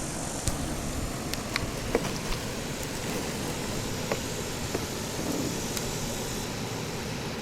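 Steady rushing river water, with a few sharp clicks and splashes scattered through it.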